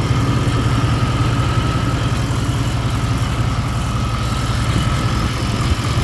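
Vehicle engine idling steadily with the A/C system running, its newly replaced compressor engaged after a fresh R134a charge, with a faint steady high whine over the engine hum.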